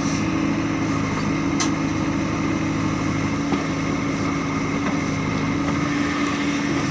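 Diesel engine of heavy machinery running steadily at a constant speed, with a brief click about a second and a half in.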